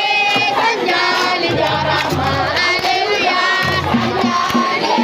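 Music: voices singing long, held notes, with a low drum-like beat coming in about a second and a half in.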